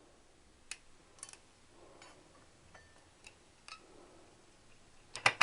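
Sparse light clicks of Triumph T120 clutch plates being worked out of the clutch, with a quick cluster of louder clicks near the end.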